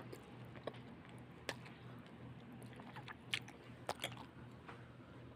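A person chewing bakso meatballs close to the microphone, with a few sharp clicks in between, over a steady low hum.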